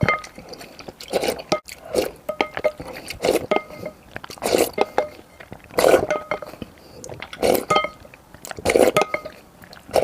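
Close-miked eating of thick purple rice porridge: wet mouthfuls and chewing come about eight times, roughly every second and a half, with short ringing clinks, likely a spoon touching the bowl.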